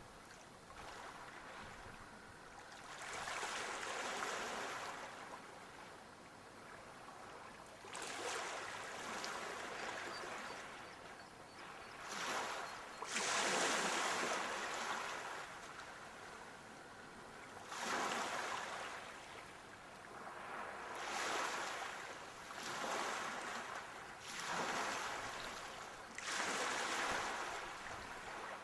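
Sea waves breaking and washing onto the shore, the surf hiss swelling and falling back every few seconds.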